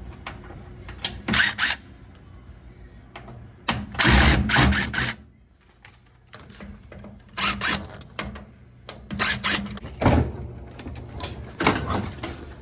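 Power screwdriver or drill running in several short bursts, backing out Phillips screws from a Samsung washer's cabinet, with handling noise between the bursts.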